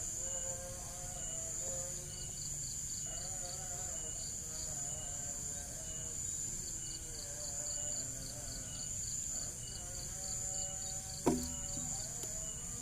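Crickets chirping steadily in a quick, even rhythm over a continuous high insect hiss, with a faint wavering tune underneath. A single sharp knock comes near the end.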